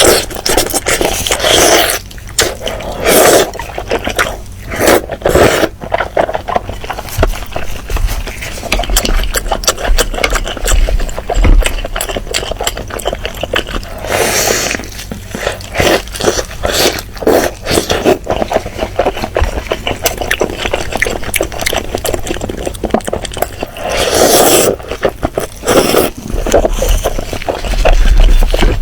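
Close-miked eating of chicken and chili soup: wet chewing and slurping with many short, sharp clicks, coming and going irregularly.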